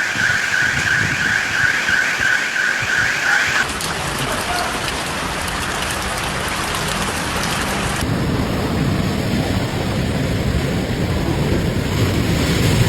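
Heavy rain pouring down. For the first few seconds an electronic alarm sounds through it in rapid rising chirps. After about eight seconds the rain comes with a heavier low rumble.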